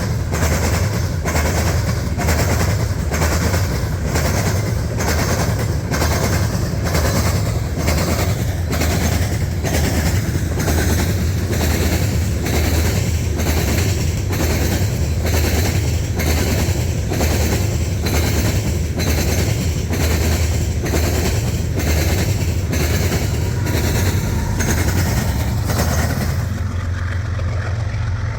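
Loaded coal train's freight cars rolling past, steel wheels clacking over rail joints in a steady, evenly spaced rhythm over a constant low rumble. The clacking stops near the end as the last cars clear.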